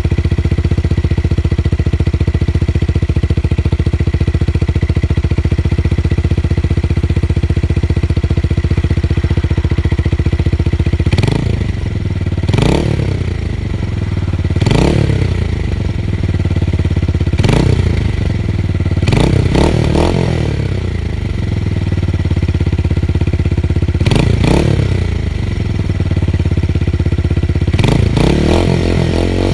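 Tuned motorcycle engine idling steadily with a bass exhaust note, then revved in a series of quick throttle blips from about eleven seconds in, each rising sharply in pitch and falling back to idle.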